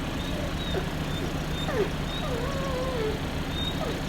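Dogs whining in short, faint whimpers, with one longer wavering whine about two seconds in, over a steady low hum.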